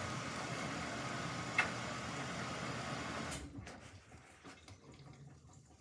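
Samsung front-load washing machine taking in water for the final rinse: a steady rush of water into the drum that cuts off suddenly a little over three seconds in as the inlet valve closes. After that only faint ticks are left.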